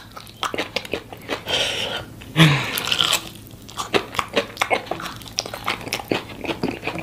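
A person biting into and chewing a spicy breaded fried chicken wing, close to the microphone, with many short sharp clicks of crunching and mouth sounds.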